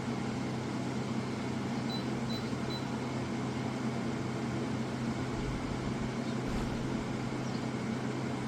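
KGOGO 7000 BTU portable air conditioner running: a steady low hum under an even rush of air. Three faint, short high beeps come about two seconds in.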